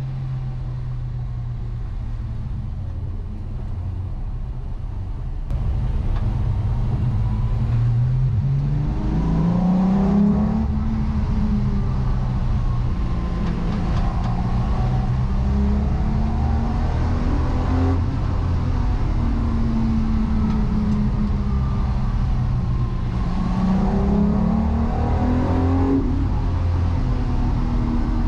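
Car engine running under way, its note climbing as it accelerates about eight seconds in and again near the end, then falling back.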